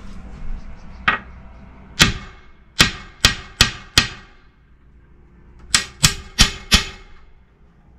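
Sharp taps on the pane of a glass door: one tap, then a quick run of five and later four more. The glass is being sounded out to judge its thickness.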